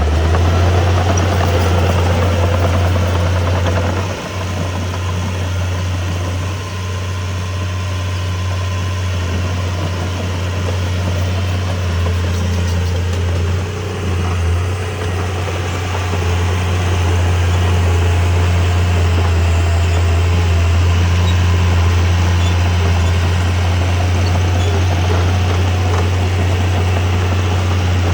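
Heavy diesel engine of earthmoving equipment running steadily with a strong low drone, dipping briefly in loudness a few times.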